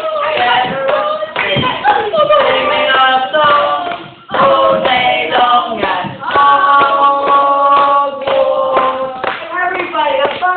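Several voices singing or chanting, with hand claps and sharp taps mixed in; a few notes are held about six to eight seconds in.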